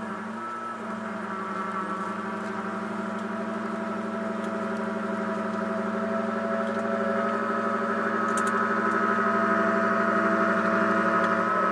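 John Deere X738 garden tractor engine running at a steady speed with its front-mounted snowblower driven, a constant hum that grows slowly louder.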